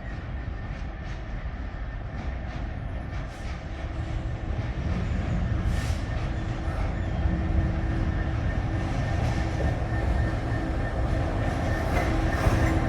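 Class 66 and Class 69 diesel locomotives of a weedkiller train moving through the station. The engine rumble grows steadily louder, a steady hum comes in partway through, and there are scattered clicks of wheels on the track.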